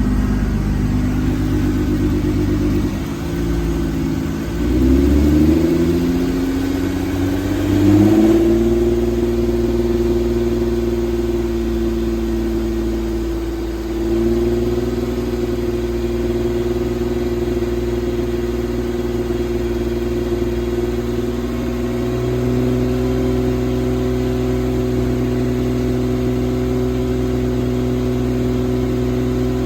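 2008 Hyundai Santa Fe's 3.3-litre V6 engine running. Its speed climbs over several seconds from about three seconds in, then it runs steadily at the higher speed, with small shifts in pitch about halfway and two-thirds of the way through.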